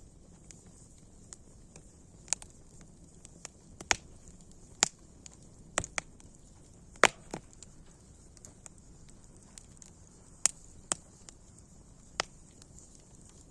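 Wood fire crackling: irregular sharp pops from the burning logs every second or two, the loudest about seven seconds in, over a faint steady hiss of flames.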